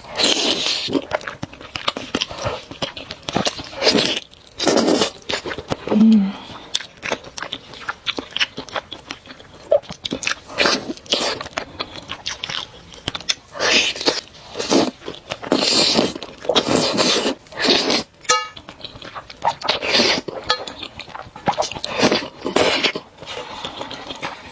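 Close-miked eating of chewy, saucy noodles: repeated irregular slurps and wet chewing.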